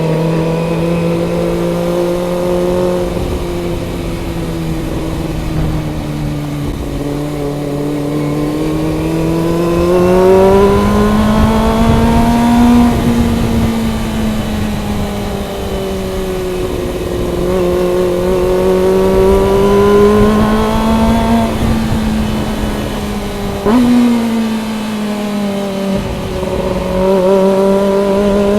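Kawasaki Ninja ZX-25R's 250 cc inline-four engine pulling on the open road, its note rising and falling with the throttle. There is a quick gear change near the end. Wind rumble is underneath.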